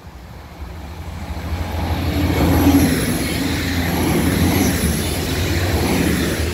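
Regional passenger train passing close by at speed over a level crossing. Its running noise builds from about half a second in and stays loud as the cars go by, with a thin, wavering high-pitched tone above it.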